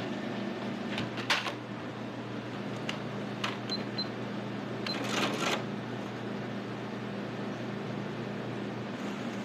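Sounds at a shop checkout: a few sharp clicks and handling rustles, with two short high beeps about four seconds in, over a steady low hum.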